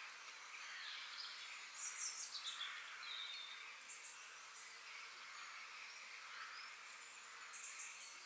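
Faint woodland ambience: wild birds chirping and trilling, with a quick run of louder chirps about two seconds in and another near the end, over a steady high background chorus.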